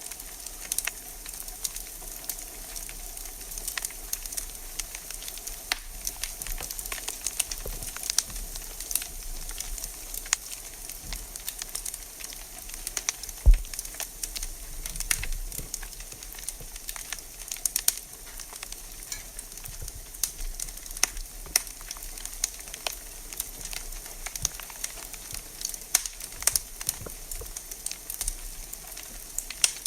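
Wood fire in a fireplace crackling, with a steady hiss and many irregular sharp pops and snaps; one louder pop comes about halfway through.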